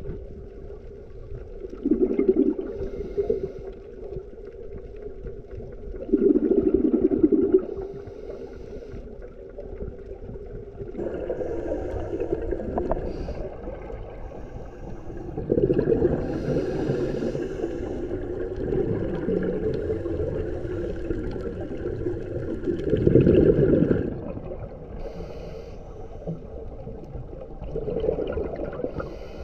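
Scuba diver breathing through a regulator underwater. Bursts of exhaled bubbles come every few seconds, with softer hissing in between, over a steady low hum for the first part.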